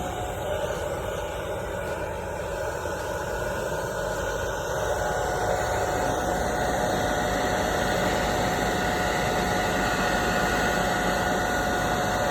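Hand-held electric hot-air blower running steadily: an even rush of air with a constant whine over it.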